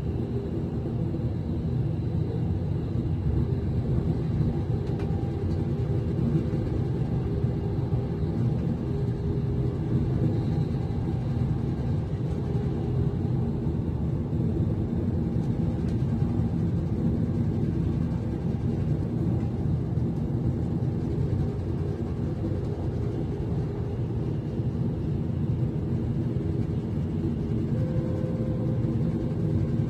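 Class 390 Pendolino electric train running, heard inside the passenger carriage: a steady low rumble with an even hum of several tones. A slightly higher hum joins near the end.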